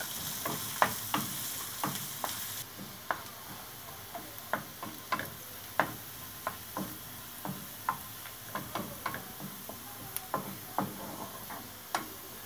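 Chopped garlic and ginger sizzling in hot oil in a nonstick pan. A wooden spatula stirs them, knocking and scraping on the pan about once or twice a second. The sizzle drops to a quieter hiss a few seconds in.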